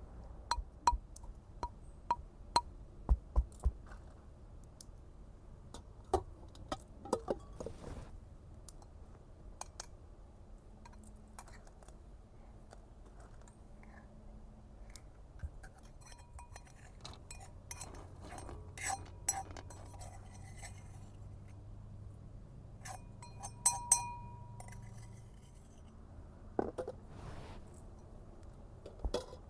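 Cookware and utensils being handled: scattered clinks and knocks, a few of them ringing briefly, with a dense cluster a little past the middle.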